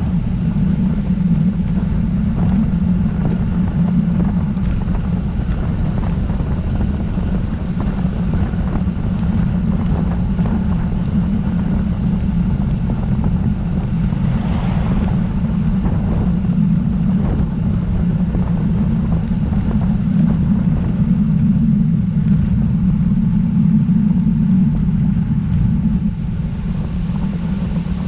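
Steady low rumble of wind on the camera's microphone while riding a road bike, with a brief fainter hiss about halfway through.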